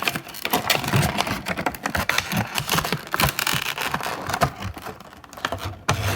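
A model airplane and its packaging being handled, making a rapid, irregular run of clicks, taps and scrapes.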